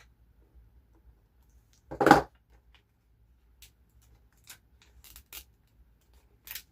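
Craft work at a desk, cutting and handling paper stickers with a craft knife. A sharp knock about two seconds in, then a few light ticks and clicks.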